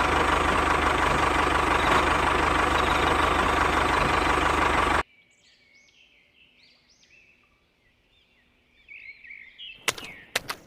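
A motor running steadily and loudly, cut off abruptly about five seconds in. Faint bird chirps follow, then a few sharp clicks near the end.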